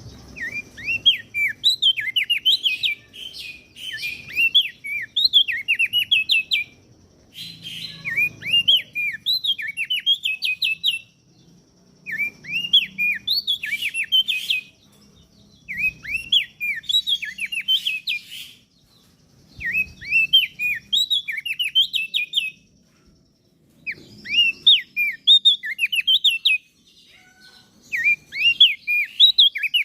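Crested darkeye (opior jambul) singing in repeated phrases of rapid, hooked chirps. Each phrase lasts two to three seconds, with short pauses between them.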